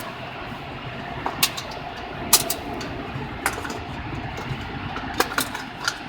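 Steady machinery hum heard from inside a car in an automatic car wash, with a faint steady tone and a handful of sharp clicks scattered through it.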